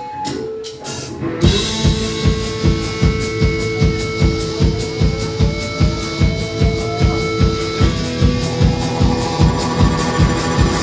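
Rock band starting a song live: after a few sharp clicks, drums come in about a second and a half in with a steady kick-drum beat under held tones. One tone glides slowly upward in the middle, and the sound thickens near the end.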